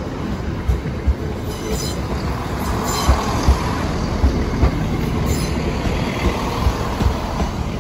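Train passing over a level crossing: a steady rumble of wheels on the rails with irregular heavy wheel thumps.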